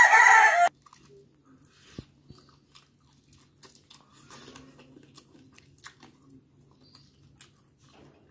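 A loud pitched cry about a second long at the very start, then a person chewing curried chicken feet and crown: soft crunches of bone and cartilage and scattered wet clicks.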